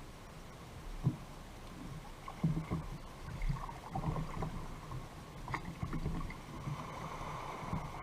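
Fishing kayak on the sea: irregular small splashes of water and light knocks against the hull.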